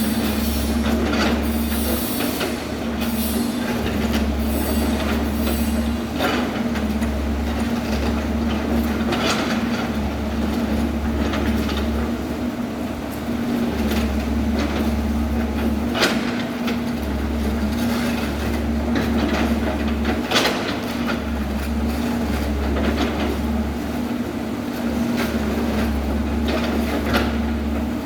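Excavator engine running steadily with a constant hum and deep rumble, and a few sharp clanks spread through it.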